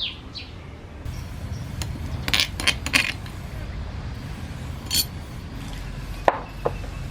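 Kitchen utensils clinking and knocking against bowls and pots in scattered strokes, with a cluster of sharp knocks a little after two seconds and two short ringing clinks near the end, over a steady low rumble.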